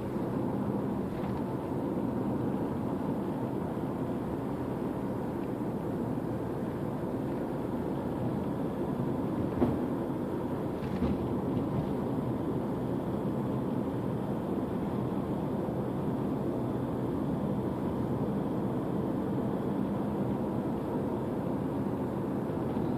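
2013 Toyota RAV4 running, a steady, even hum of vehicle noise with a low engine drone, broken by two faint clicks about ten and eleven seconds in.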